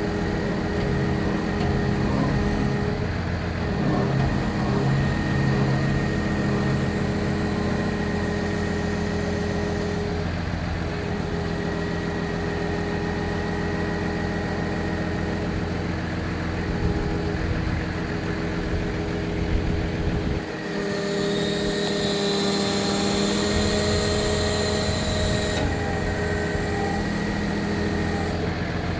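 The Cummins 6.7-litre inline-six diesel of a 2013 Freightliner bucket truck running steadily. About two-thirds of the way through, a high whine joins it for a few seconds.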